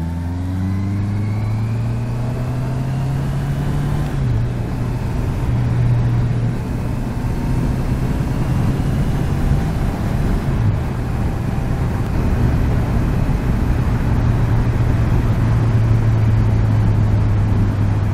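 Honda CBR650F's inline-four engine pulling away and rising in pitch for about four seconds. It changes pitch sharply around four seconds and again near ten seconds, then runs steadily at road speed, with a steady rush of air noise underneath.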